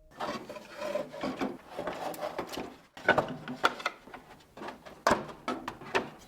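Irregular scraping and rubbing strokes of hand work on a part, broken by a few sharp clicks, the loudest of them about three, five and six seconds in.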